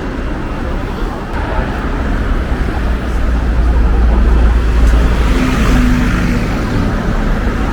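Vehicle and street traffic noise: a steady low rumble that grows louder a few seconds in and then eases slightly.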